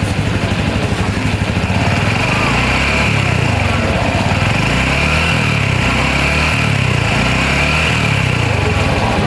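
Small motorcycle engine running at close range, beating unevenly for the first couple of seconds, then running smoother with its pitch rising and falling slightly.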